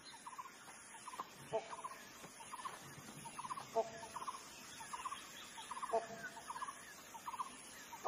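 Faint wild bird calls: little clusters of quick clucking notes, and a short two-note call that comes three times, about every two seconds.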